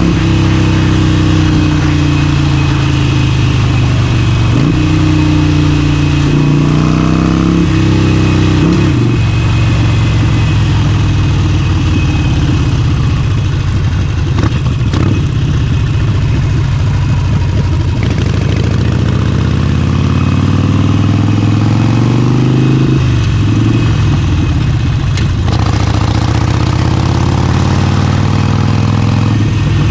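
Harley-Davidson Forty-Eight's 1200 cc V-twin engine under way, its pitch climbing as it accelerates. It drops suddenly at each upshift, several times in quick succession early on and again about two-thirds through, and holds steady at cruising speed in between.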